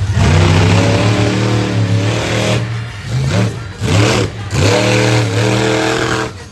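Monster truck engine at full throttle, revving hard. It cuts out for a moment about two and a half, three and a half and four and a half seconds in, climbing back up in pitch each time, and drops away just before the end.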